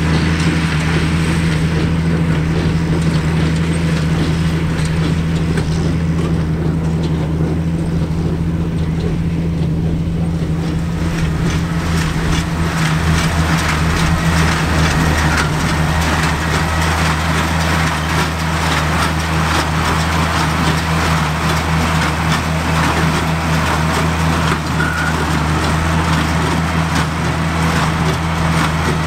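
Oliver 770 tractor's six-cylinder engine running steadily under load, driving a New Holland 276 Hayliner small square baler through the PTO, with a fast mechanical clatter from the baler over the engine drone.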